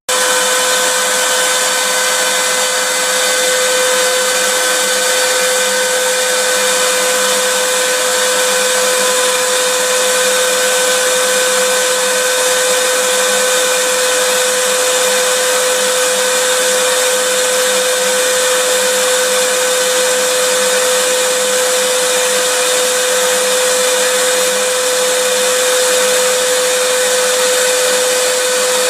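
Electric vacuum cleaner running steadily: a constant motor whine over rushing air noise, never changing in pitch or loudness.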